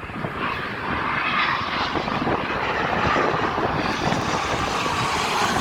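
Gulfstream business jet's turbofan engines passing, the jet noise growing louder over the first second and then holding as a steady rush with a whine in it.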